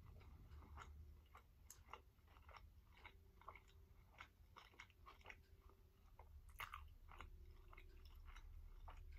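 Faint close-miked chewing of a spring roll: soft wet mouth clicks and small crunches scattered irregularly, with a slightly louder couple near the middle.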